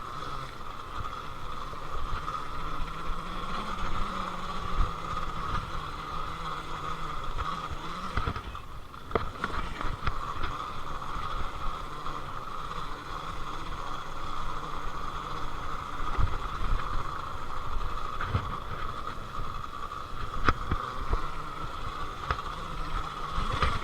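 Happy Run electric dirt bike being ridden over dirt trails: a steady high whine from the electric motor over the rumble of knobby tyres and suspension on rough ground, with a few sharp clunks.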